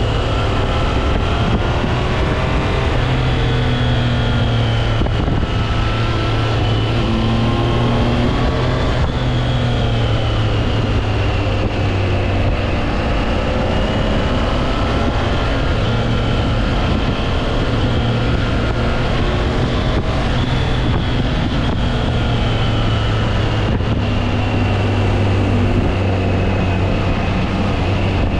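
Triumph Trident 660's inline three-cylinder engine running while the motorcycle is ridden, its revs rising and falling gently with no sharp changes.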